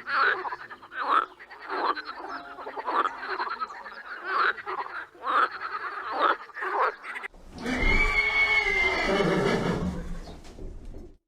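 An animal giving a series of short, rasping croaking calls, about one a second. After about seven seconds it cuts to a louder, longer animal call that falls in pitch.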